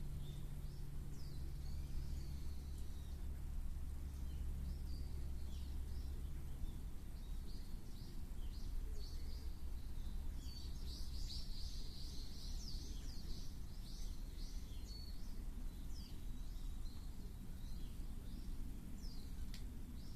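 Small birds chirping and calling, many short notes with a dense flurry about halfway through, over a steady low rumble. A low hum under them stops after about five seconds.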